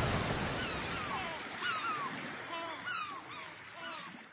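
Sea waves and storm noise fading away, with many short falling bird chirps over them.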